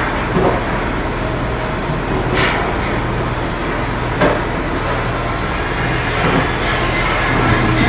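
Steady machinery drone with a low hum, broken by a few sharp knocks.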